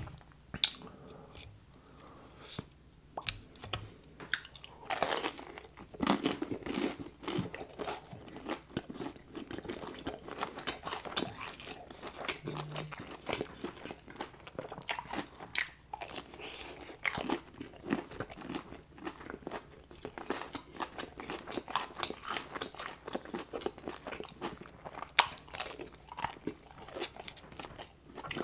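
Close-miked biting, crunching and chewing of crispy breaded fried chicken fingers, dense irregular crackles of the breading breaking between the teeth.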